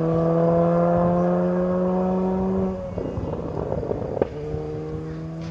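Rally car engine held at steady high revs, rising slightly, then cutting off sharply under three seconds in. A rush of rough noise and a single sharp crack follow, then a steady engine note comes back, quieter.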